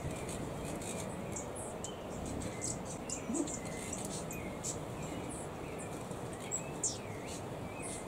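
Small birds chirping: many short, high-pitched chirps come at irregular intervals, with softer wavering notes lower down, over a steady background hiss.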